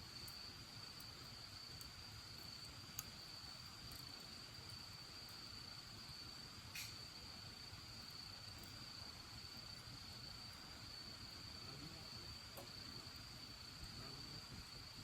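An insect trilling steadily on one high pitch, with a few sharp pops and crackles from a burning wood fire, the clearest about seven seconds in.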